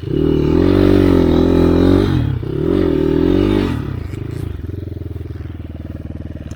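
Enduro dirt bike engine revving hard under throttle in two pulls, the second shorter, then dropping back to a lower steady run.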